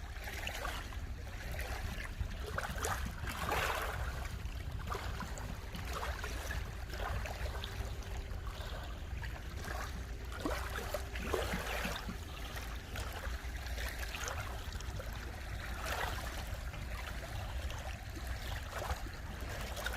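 Small lake waves lapping and splashing at the shore, irregular splashes over a steady low rumble.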